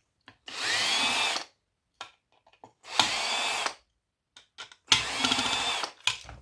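Cordless drill-driver running in three short bursts, each spinning up with a rising whine, to back out the small-headed screws of an old hard drive; small clicks of the parts between bursts.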